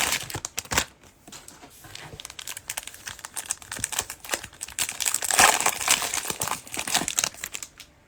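Plastic trading-card cello pack wrappers crinkling as they are torn open and handled, in two busy bursts, one right at the start and a louder one about five seconds in.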